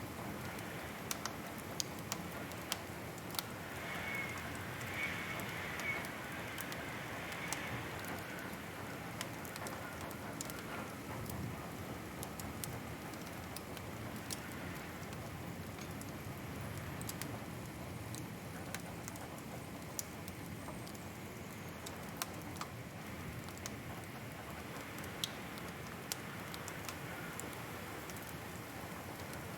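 Wood fire crackling in a fireplace: irregular sharp pops and snaps over a steady soft hiss. A brief faint whistle comes about four to six seconds in.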